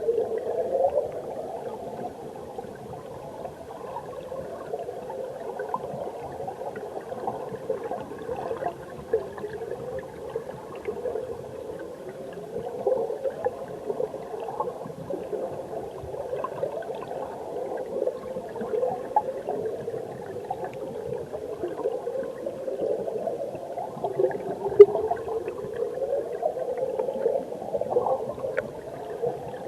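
Mountain stream heard underwater: a steady muffled bubbling and gurgling of flowing water, full of small popping bubble sounds. One sharp click stands out about three-quarters of the way through.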